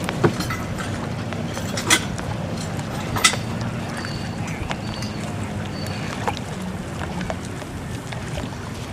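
Steady low motor drone, with three sharp knocks in the first few seconds.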